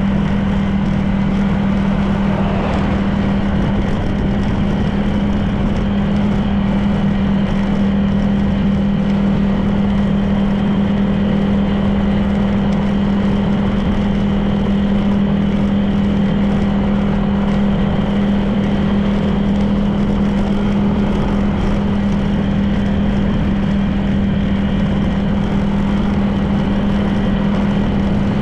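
Honda PCX 160 scooter's single-cylinder engine running at a steady cruising speed, an even hum with no revving, over constant wind and road noise.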